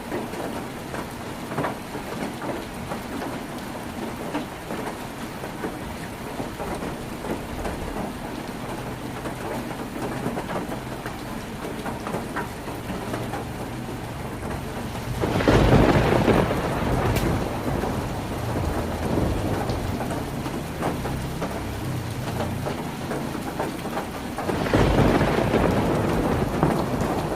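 Heavy rain falling on a tin roof, a steady patter of drops, with thunder rumbling low underneath and swelling into two loud rolls, about halfway through and again near the end.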